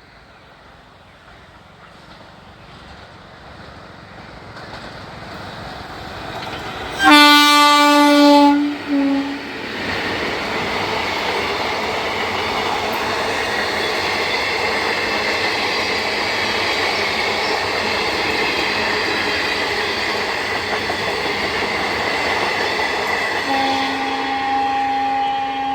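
Indian Railways express train with LHB coaches approaching and passing at speed. The locomotive's horn gives a loud blast about seven seconds in, followed by a short second blast. Then comes a long, steady rush of the coaches running over the track, with a horn sounding again near the end.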